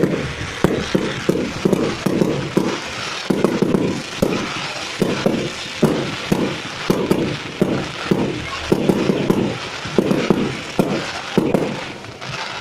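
Fireworks display going off in a rapid, continuous barrage of bangs and crackles, several a second.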